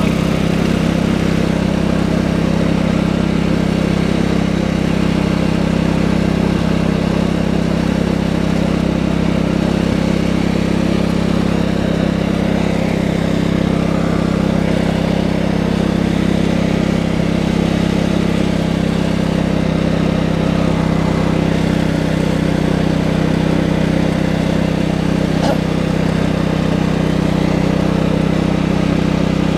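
Tractor engine running steadily, a loud low hum that holds one speed with no revving.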